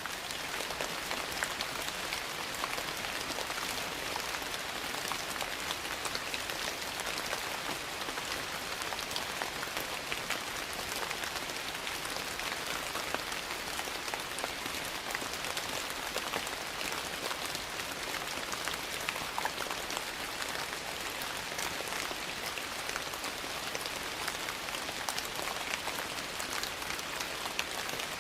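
Steady rain hissing, with many small sharp crackles scattered through it from a log fire burning in a fireplace.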